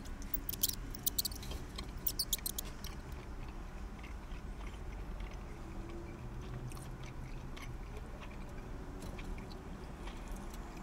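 A person chewing a mouthful of soft chicken burrito: quick, wet mouth clicks, busiest in the first few seconds and fainter after.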